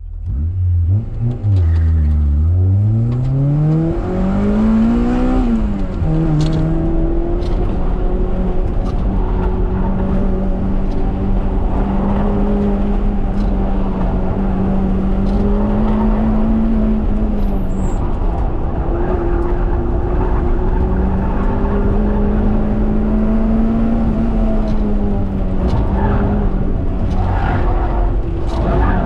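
Honda Prelude's H22 four-cylinder VTEC engine driven hard: the revs climb for a few seconds from the start, drop sharply at a gear change about six seconds in, then hold fairly steady with small rises and dips.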